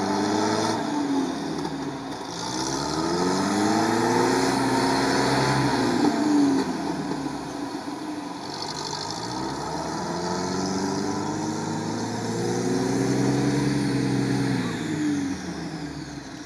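Off-road engines of a UAZ and a Lada Niva revving under load in deep mud, the pitch climbing and falling back in three long swells as the UAZ pulls the stuck Niva through on a tow line.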